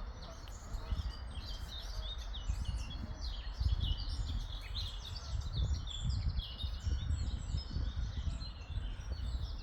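Many small songbirds chirping and twittering together in quick overlapping phrases, over a low gusting rumble of wind on the microphone.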